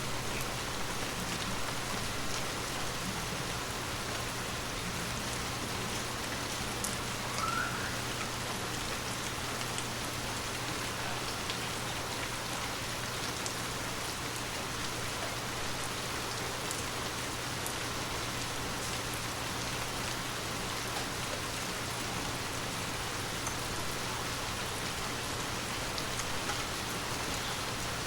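Water drops tapping on glass: a steady, even patter with scattered sharper little ticks.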